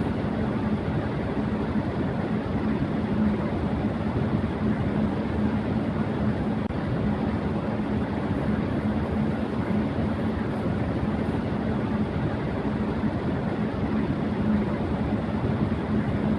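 Electric fan running at high speed: a steady rush of air with a constant hum underneath.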